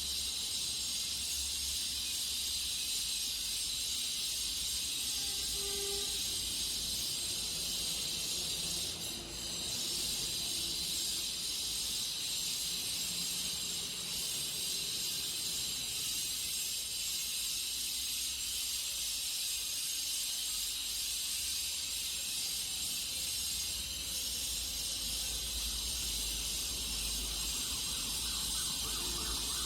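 A steady high-pitched hiss with no break throughout, over a faint low rumble.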